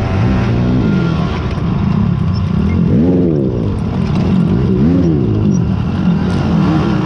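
Racing quad (ATV) engines revving up and down as they accelerate and come off the throttle, their pitch rising and falling again and again.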